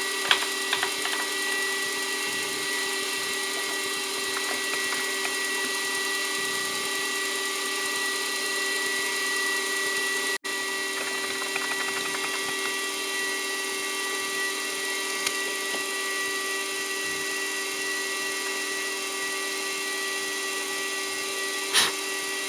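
Milling machine spindle running steadily with an end mill cutting through aluminium stock, a steady whine of several pitches. The sound drops out for an instant about halfway through.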